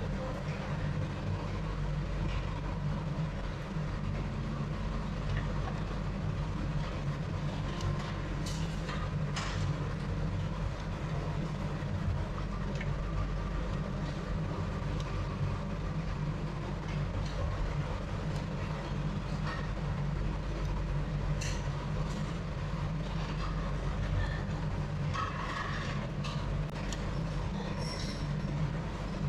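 Steady low mechanical rumble with scattered light clicks and clinks.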